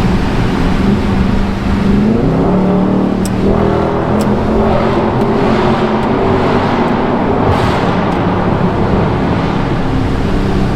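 Dodge Charger Scat Pack's 392 (6.4-litre) HEMI V8 pulling the car along, its note rising about two seconds in as it accelerates, then holding steady over road noise.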